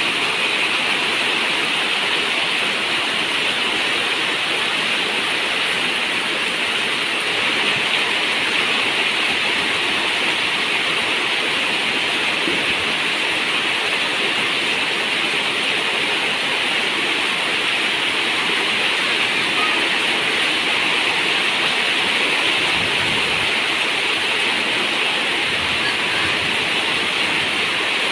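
Steady rain falling on a zinc roof: a dense, even hiss of water that holds unchanged throughout.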